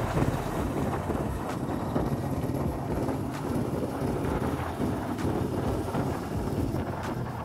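Royal Enfield Bullet single-cylinder engine running steadily while riding, with wind buffeting the microphone.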